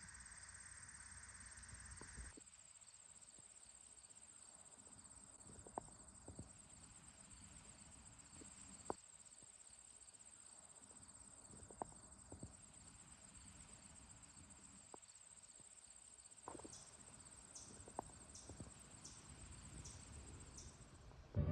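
Faint, steady high-pitched trilling of insects, with a few soft scattered clicks. Near the end, a short run of separate high chirps comes about one every half second.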